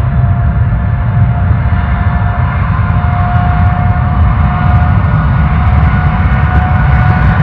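Jet airliner engines running, a heavy low rumble under a steady whining tone that grows slightly louder near the end.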